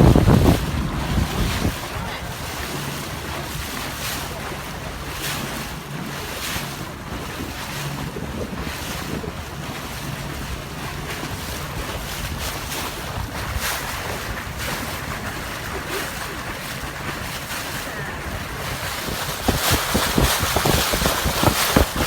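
Boat under way on open water: wind buffeting the microphone over rushing water, with a faint low hum underneath. The buffeting grows louder and choppier near the end.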